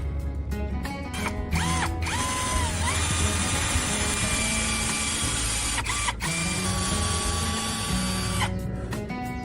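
A power tool running, its motor whirring for several seconds and speeding up and slowing down a few times before it stops near the end, over background music.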